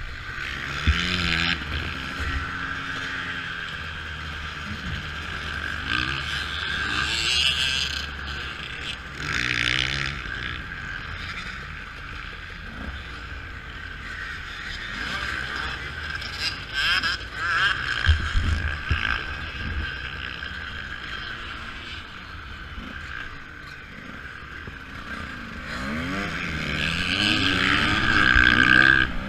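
Motocross bike engine heard from an on-board camera, the revs rising and falling again and again as it rides the track, with the longest, loudest climb near the end before it cuts back suddenly.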